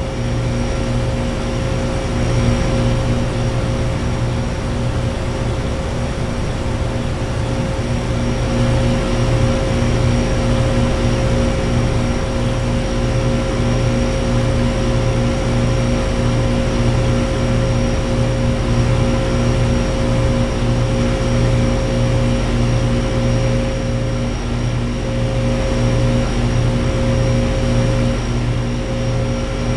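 Outdoor heat pump condensing units running: a steady compressor hum made of several fixed low tones over the even rush of the condenser fans.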